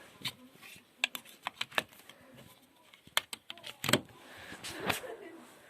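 Irregular clicks and knocks of something being handled, about a dozen, the loudest about four seconds in.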